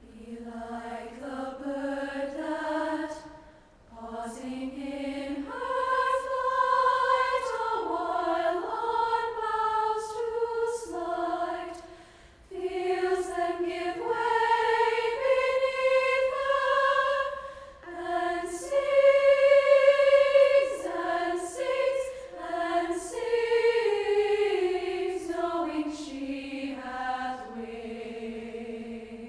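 A choir singing in slow, sustained phrases that move from note to note, breaking off briefly twice between phrases.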